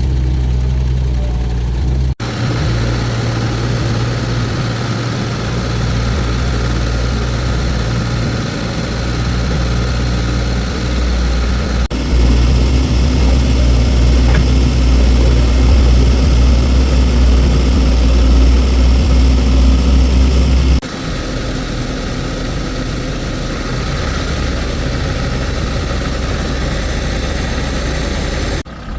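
Vehicle engine idling steadily, heard in several takes that change abruptly about two, twelve and twenty-one seconds in, loudest in the middle take.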